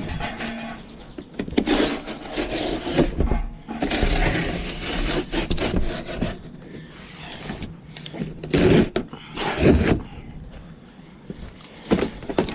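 Irregular scraping, rubbing and knocking of hands-on work with tools and materials, with two louder knocks about a second apart two-thirds of the way through.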